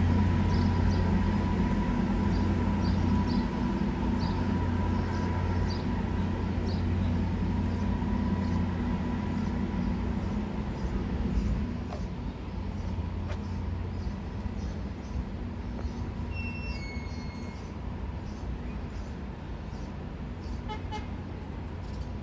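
Subway train running with a low rumble and steady hum that gradually fades, with a few brief high-pitched squeaks and short whistle-like tones partway through.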